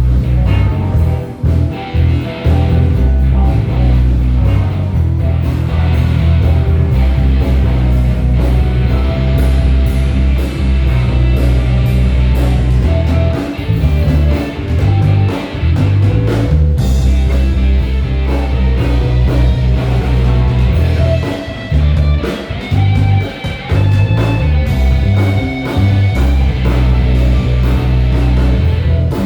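Live band playing an instrumental passage: a steady bass line and drums under keyboard and guitar.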